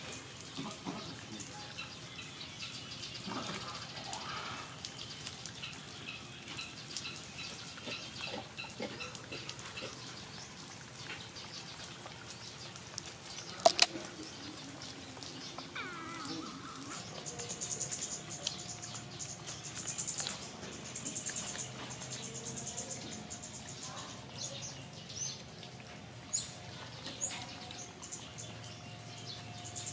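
Garden ambience with birds chirping and calling, and repeated bursts of a fast high trill in the second half. A single loud sharp click comes about halfway through.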